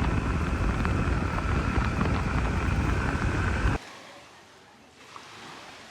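Loud steady rushing noise with a faint steady whine in it, cut off abruptly about four seconds in, leaving quiet outdoor ambience with a brief high chirp.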